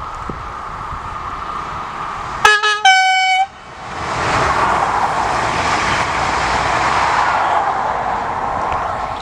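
Electric passenger train sounding a two-tone horn about two and a half seconds in, a short lower note then a slightly longer higher one. It then passes at speed, the rush of wheels and air swelling and fading away near the end.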